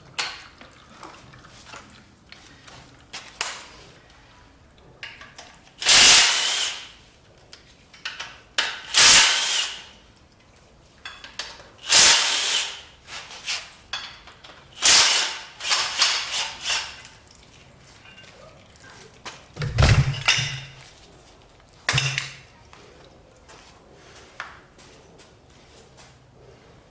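Power tool run in about seven short bursts a few seconds apart, used for taking bolts off a 5.3 LS V8 during its teardown.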